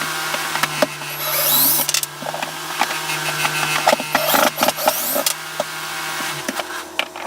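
Wooden TV cabinet framing being demolished by hand: repeated knocks, cracks and scrapes of wood, with a squeaky scraping stretch about a second in. A steady low hum runs underneath and stops shortly before the end.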